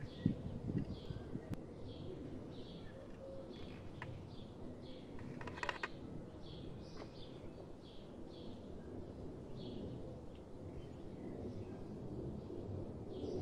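Small birds chirping over and over, short high notes every half second or so, with a brief rattling call about six seconds in. A few soft low knocks near the start over a low background hum of outdoor noise.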